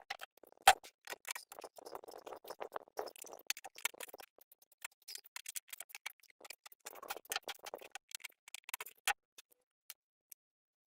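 Irregular light clicks, taps and rustling handling noises, with a sharper knock about a second in and another near the end; no engine is running.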